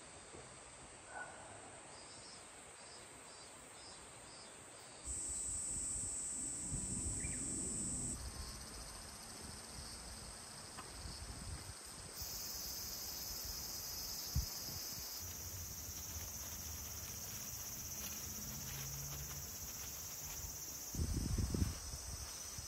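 Insects chirring steadily in high-pitched bands that shift abruptly several times. Low rustling and thuds of handling come in places, loudest in a short burst near the end.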